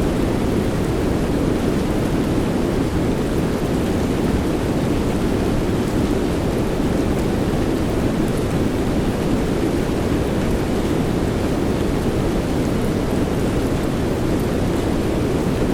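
Steady soft rain blended into an even, deep noise whose weight sits low, with no change in level. A few faint drop ticks sit on top.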